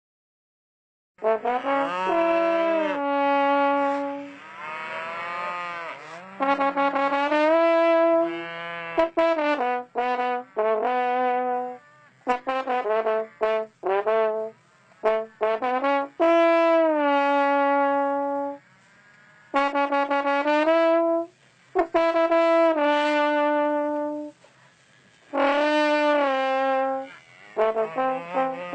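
Music: a brass instrument plays a slow melody of held notes joined by pitch slides, in phrases broken by short pauses. It starts about a second in.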